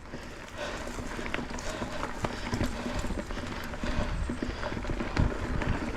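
Mountain bike rolling over a rocky trail: irregular clicks, knocks and rattles from the tyres, chain and frame over a steady low rumble.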